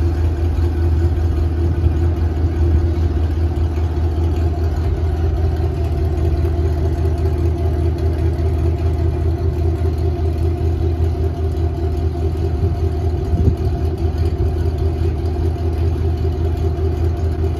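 Car engine idling steadily, a deep even drone with no change in pitch.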